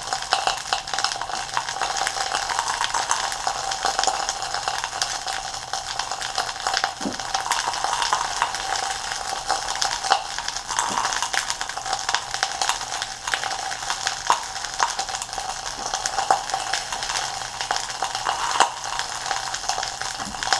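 Pepper halves frying in oil in a pan: a steady sizzle full of fine crackles.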